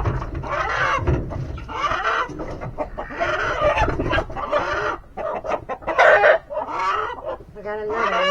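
A flock of chickens clucking and calling continuously, many birds overlapping.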